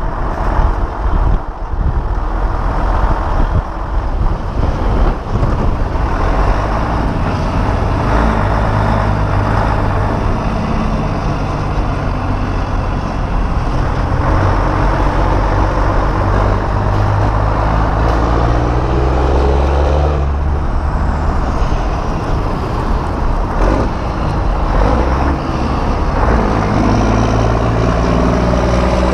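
Semi-truck diesel engine running, with a steady low engine note. Wind buffets the microphone in the first few seconds.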